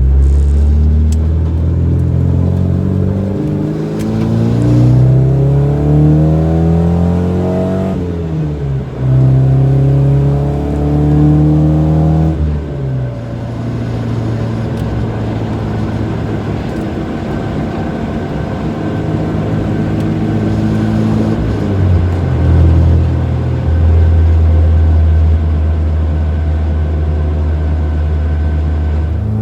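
Nissan 240SX (S14) four-cylinder engine through an HKS Hi-Power exhaust, heard from inside the cabin on a drive. It revs up through a gear, drops in pitch at a shift about eight seconds in, and pulls up again. From about twelve seconds on it settles into a steady low cruising drone.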